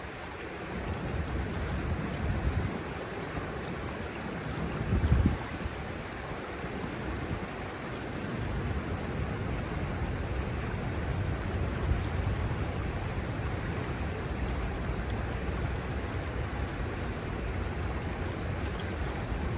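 Steady rush of the shallow Kamo River flowing over its gravel bars, with wind buffeting the microphone in low gusts, the strongest about five seconds in.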